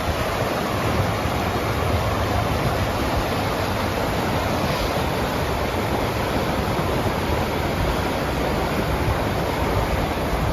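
Steady rushing wind noise on a bike-mounted action camera's microphone while riding a gravel bike, even throughout.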